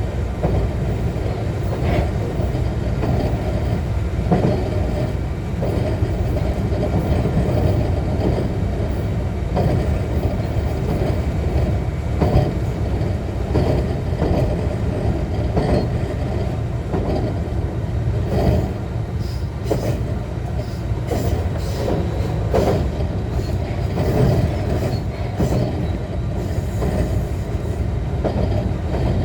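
Interior running noise of a JR West 125-series electric railcar moving along the track. A steady low rumble is broken by irregular wheel clicks and knocks over rail joints.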